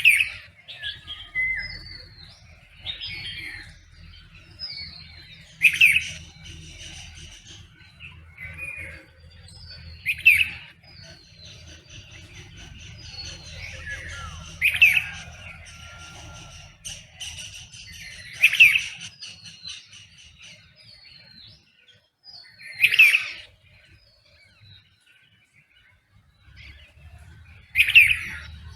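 Songbirds calling in a dawn chorus. One loud call comes back about every four to five seconds, with many softer chirps and whistles between, over a faint low rumble.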